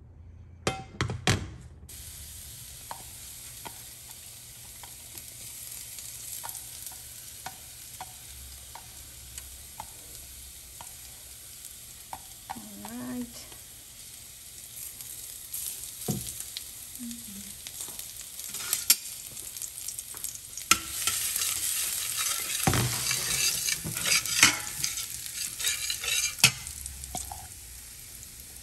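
Small chopped pieces of food frying in a little hot oil in a stainless steel skillet, with a steady sizzle that grows much louder in the second half. A few sharp knocks near the start, and occasional clicks of a utensil against the pan.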